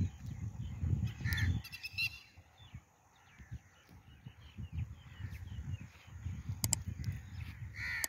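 Harsh, crow-like bird caws, a couple near the start and a couple near the end, over a low, uneven rumble, with a few brief clicks in between.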